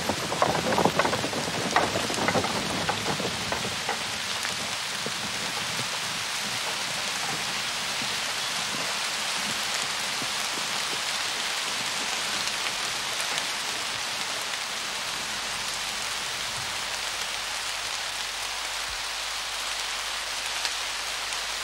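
Steady heavy rain, with a few sharp knocks in the first few seconds.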